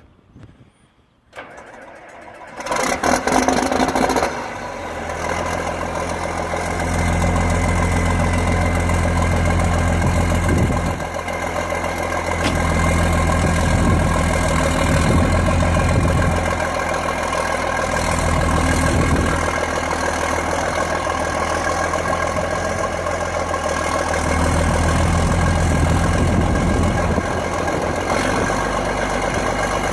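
1978 John Deere 8430 tractor's six-cylinder turbocharged diesel being started: a brief crank, then it catches about two and a half seconds in and revs up loudly before settling into steady running. Through the rest, a deep low drone swells and eases several times.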